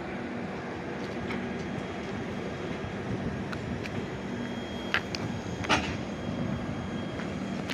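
Train running past: a steady rumble with a few sharp metallic clicks, the loudest about five seconds in and just after.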